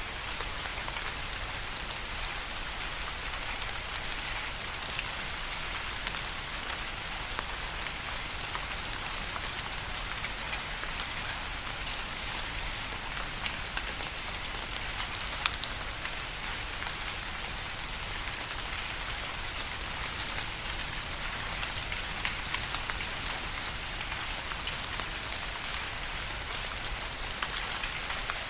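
Steady rain falling on a hard surface, with a continuous hiss and many distinct drop ticks sprinkled through it.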